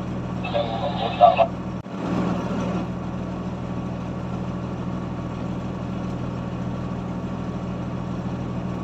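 Heavy earthmoving machine's engine running steadily at a low, even hum. A short break near two seconds in is followed by a brief rise in noise before the hum settles back.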